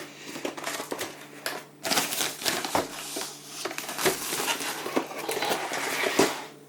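Plastic packaging crinkling and rustling as it is handled, with many small clicks and knocks and a brief lull just before two seconds in.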